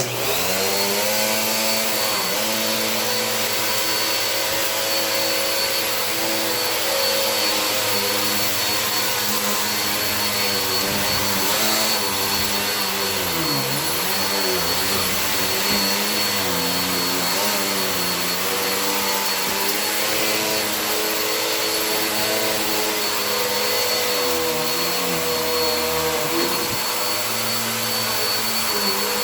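Vacuum cleaner switched on and running steadily while vacuuming ice salt off a rug, a high whine over the motor's note. The motor's pitch dips briefly twice, about halfway through and again near the end, as its load changes.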